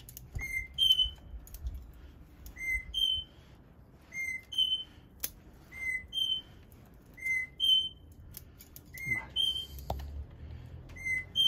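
A bird's two-note whistled call, a short lower note followed by a higher one, repeated about every second and a half. Sharp clicks of steel bonsai scissors snipping juniper roots come in between.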